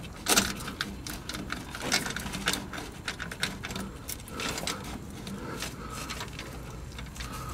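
Metal exhaust clamp coupling being worked onto the exhaust pipe: irregular metallic clicks, knocks and scraping, with a sharper knock about half a second in and another about two seconds in.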